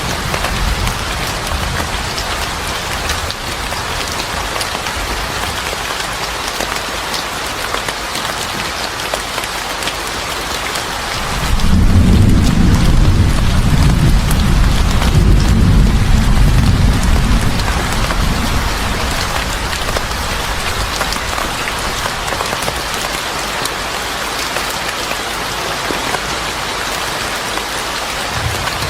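Steady heavy rain hiss. About twelve seconds in, a long low rumble of thunder rises over it and fades out after about six seconds.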